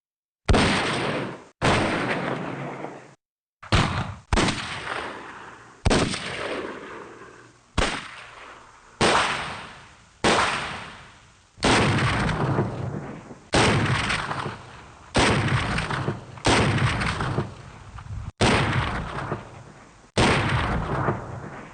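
A string of separate gunshot sound effects, about fourteen, played one after another every second or two. Each is a sharp bang with a long echoing decay, and several are cut off abruptly by the next.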